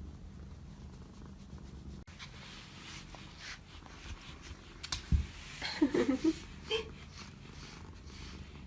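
A domestic cat purring, low and steady, for the first two seconds, then breaking off. Later come quieter rustling, a dull knock about five seconds in, and a brief wavering voice-like sound around six seconds.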